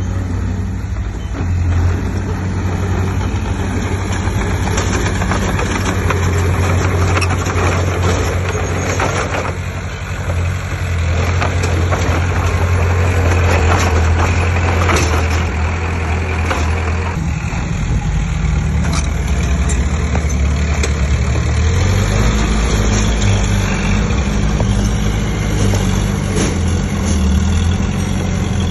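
Heavy diesel earthmoving machinery running steadily under load, its engine note changing about two-thirds of the way through, with scattered knocks and clatter throughout.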